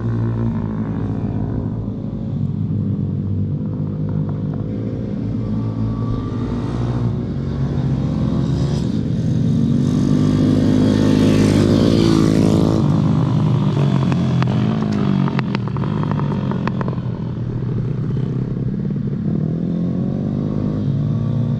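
Pit bike engines running and revving, their pitch rising and falling, loudest and highest about ten to twelve seconds in.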